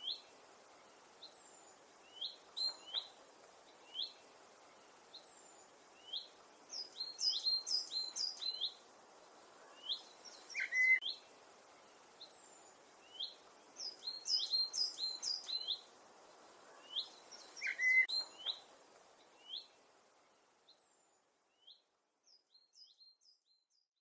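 Small birds chirping: many short, quick downward-sliding chirps with bursts of higher twittering, over faint outdoor background noise that fades out about 20 seconds in, followed by a few last chirps.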